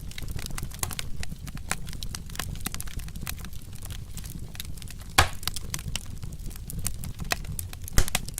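Wood fire crackling, with frequent small snaps and two loud pops, one about five seconds in and one near the end, over a low steady rumble of burning.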